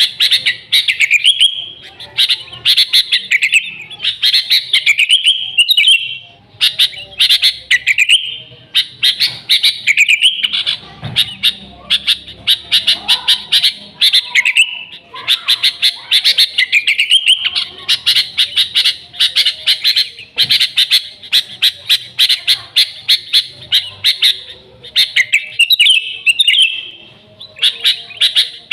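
Sooty-headed bulbul calling vigorously: long runs of quick, chattering notes, with only brief pauses between phrases.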